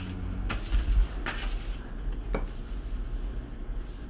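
Handling noises: a few light knocks and clicks with some rubbing of objects, over a steady low hum.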